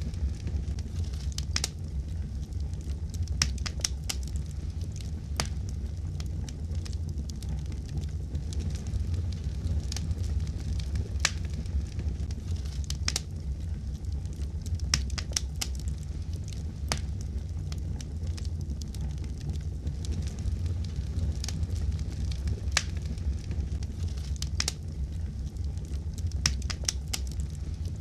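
Wood fire crackling: a steady low rumble of burning with irregular sharp pops and snaps.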